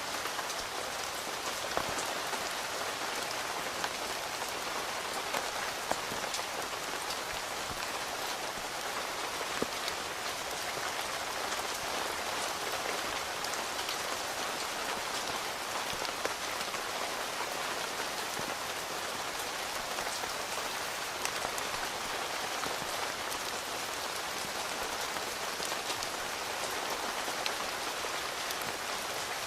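Steady rain heard from inside a tent, an even hiss with scattered single drops tapping close by.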